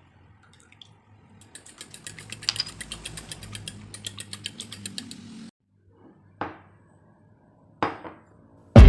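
Rapid clinking of a kitchen utensil against a bowl, several strokes a second for about four seconds, stopping abruptly. Two single knocks follow.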